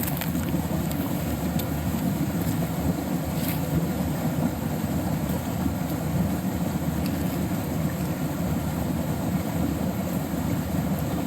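Creek water rushing over rapids: a steady, low rushing sound at an even level.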